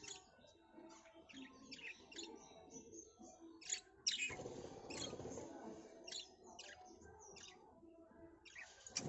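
Birds chirping in many short, high, repeated calls. About four seconds in, a louder rushing noise lasts about two seconds.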